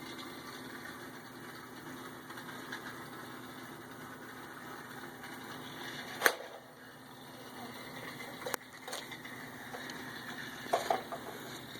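Small electric motor of a toy train set running with a steady whir. Sharp plastic knocks sound about six seconds in, again about two seconds later, and near the end.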